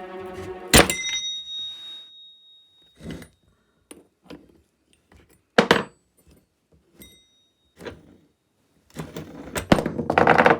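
Metal chainsaw parts knocking and clinking as they are handled and taken apart: a sharp clank with a brief metallic ring about a second in, scattered single knocks after it, and a burst of rattling near the end.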